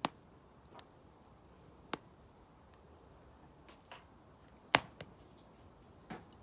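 Burning wood crackling: sharp, separate pops at irregular intervals of about a second, the loudest a little under five seconds in.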